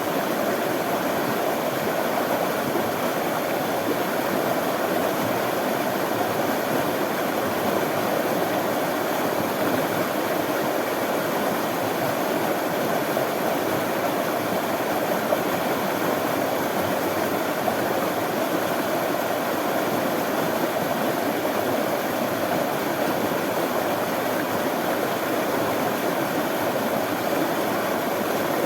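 Running water: a stream flowing in a steady, even rush.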